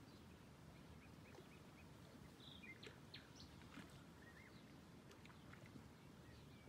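Near silence with faint, scattered small-bird chirps over a low, steady background noise.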